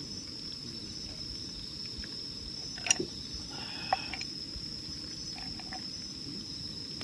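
Night insects trilling steadily at a high pitch, with two sharp clicks or knocks about three and four seconds in, the first the louder.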